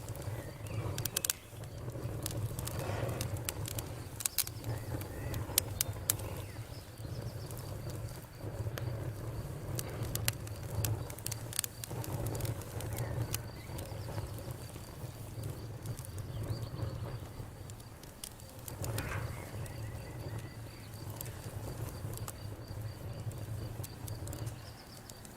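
Campfire crackling, with many sharp pops and snaps scattered irregularly over a low, steady rumble of burning wood.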